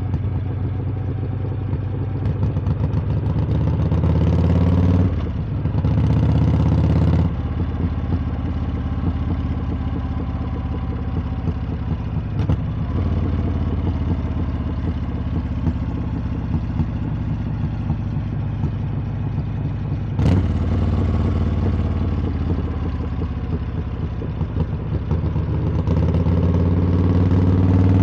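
Harley-Davidson V-twin exhaust under way on a ride. The engine note climbs, drops briefly twice as the gears are shifted up, runs steadily for a long stretch, then climbs again near the end.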